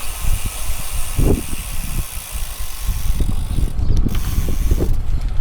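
Bicycle on the move: wind rumble on the microphone and road noise, with the rear hub's freewheel ticking as the rider coasts.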